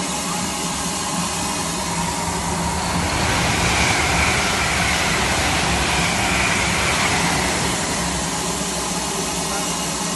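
Steam locomotive with a steady, loud hiss of steam over a low rumble, without a clear exhaust beat.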